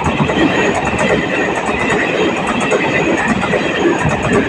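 A train passing close by: a steady, loud rush of wheels on rails with a rapid run of clicks.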